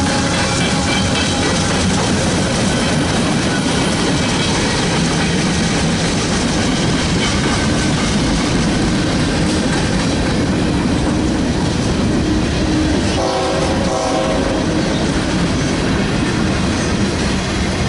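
A train passing close at speed, its wheels clattering steadily over the rails, with a short horn note about thirteen seconds in.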